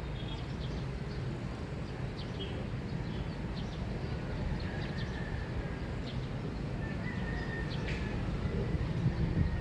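Dawn neighborhood ambience: birds chirping sporadically with a few short whistled notes, over a steady low background rumble.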